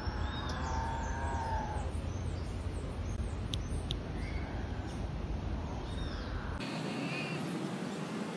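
Birds chirping and calling, with short high chirps throughout and a longer wavering call about a second in, over a low background rumble that cuts off abruptly near the end.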